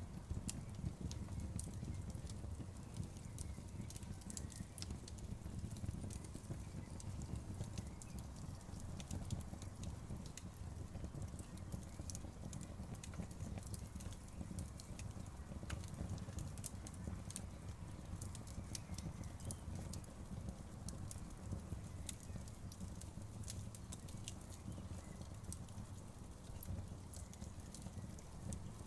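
Wood campfire burning, with frequent irregular crackles and pops of burning wood over a steady low rumble.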